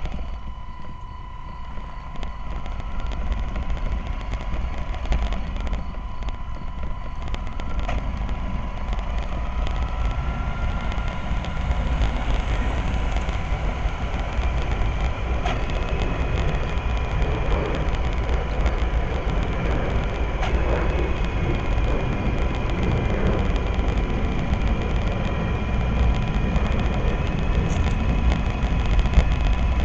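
Radio-controlled model Citybus Enviro400 bus driving along the road. Its small electric motor whines, rising in pitch about ten seconds in and then holding, over a steady low rumble.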